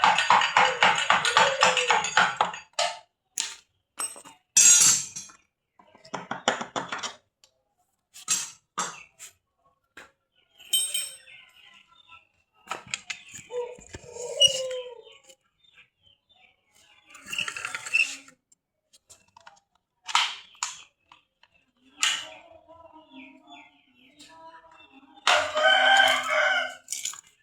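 Rooster crowing at the start and again near the end, with scattered short clicks and taps in between.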